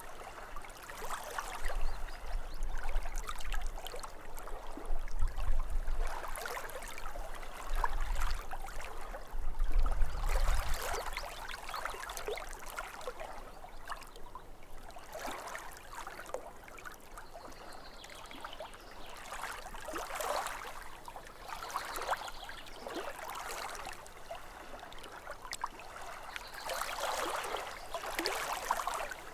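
Small waves lapping at a lakeshore: irregular gurgling splashes that swell and ebb every second or two, with a low rumble under the louder surges in the first third.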